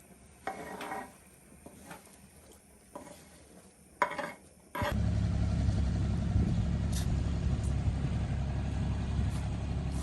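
A few light metallic clinks and knocks. About five seconds in, an engine suddenly starts being heard and runs steadily and loudly, with a low hum.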